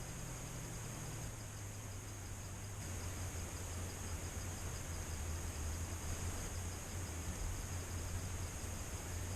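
Tropical forest insects calling: a steady high-pitched drone with a fast, even chirping repeated underneath, over a low steady rumble.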